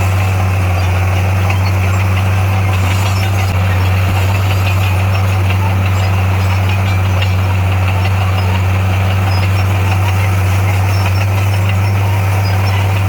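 Diesel engine of a heavy construction machine running steadily at a constant low pitch.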